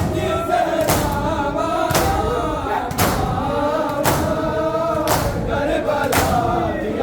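Men chanting a noha together in chorus, with a hard thump about once a second in time with the chant: the rhythmic chest-beating (matam) of Muharram mourners.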